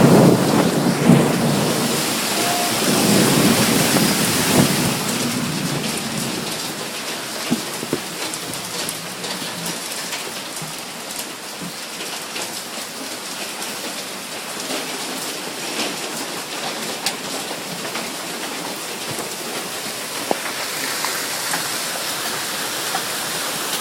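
Hail and heavy rain pelting down: a dense hiss scattered with sharp ticks of hailstones striking hard surfaces. A low rumble of thunder fades away over the first five seconds.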